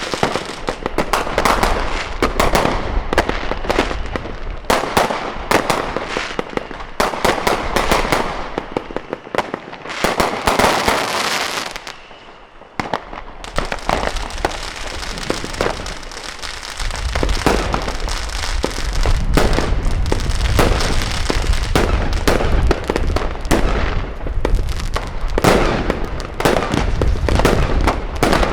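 Fireworks and firecrackers going off in a dense, rapid run of bangs and crackling, dropping to a short lull about twelve seconds in. From about seventeen seconds in, a low rumble runs under the continuing bangs.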